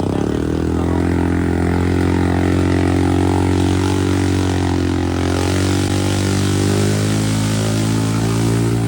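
ATV engine running hard at steady high revs, its pitch held nearly constant. A rushing hiss comes up over it about five seconds in.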